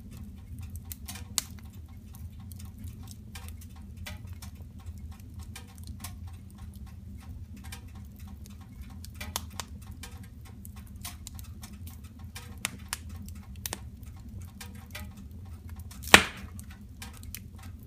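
Wood fire in a fireplace crackling, with scattered small snaps over a steady low hum and one loud pop near the end.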